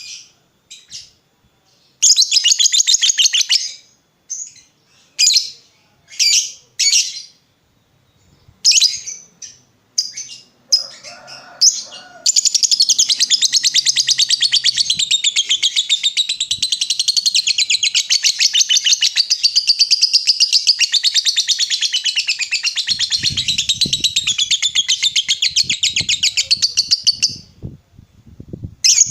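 Lovebird chattering in several short bursts, then one long unbroken ngekek about fifteen seconds long, a rapid run of high chattering notes. This is the long ngekek that lovebird keepers play as a lure to set other lovebirds chattering back.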